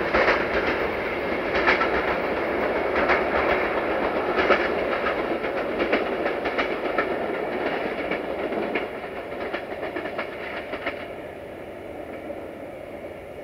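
Train running away over jointed track, its wheels clicking over the rail joints above a rumble, all fading steadily. The clicking stops about eleven seconds in, leaving a faint rumble.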